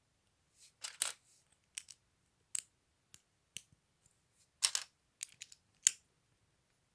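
Plastic LEGO pieces clicking as they are handled and pressed together: a string of about a dozen short, sharp clicks, with two brief rustles, about a second in and again just past the middle.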